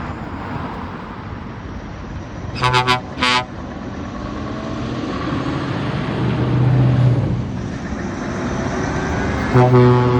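Heavy trucks pulling past with engines running and building up around the middle. A truck horn gives two short blasts about three seconds in, and a horn sounds again near the end.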